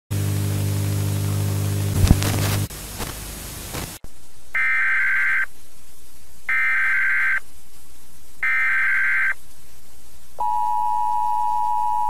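A loud low buzz with static noise for about two and a half seconds, then quieter hiss that cuts off. Then an Emergency Alert System header: three bursts of warbling data tones near 2 kHz, each about a second long, a second apart, followed about ten seconds in by the steady two-tone EAS attention signal.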